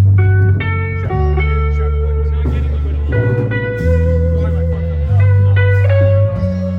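Rock band playing an instrumental passage: electric guitar over bass notes that change about once a second, with cymbal hits. A guitar holds one long note from about three seconds in to near the end.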